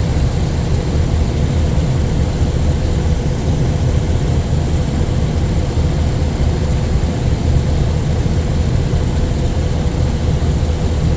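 Aircraft engines running with a steady low rumble and a faint high whine, holding at the same level throughout.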